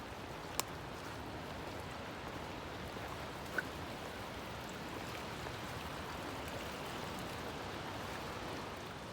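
Steady rushing of a mountain stream, with a sharp click about half a second in and a brief high chirp a few seconds later.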